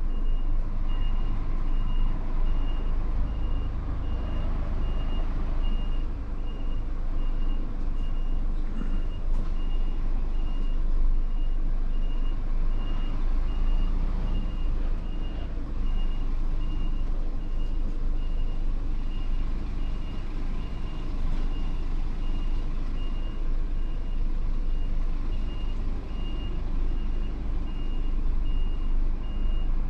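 Truck's reversing alarm beeping steadily at an even pace over the low running of the lorry's engine as it manoeuvres slowly.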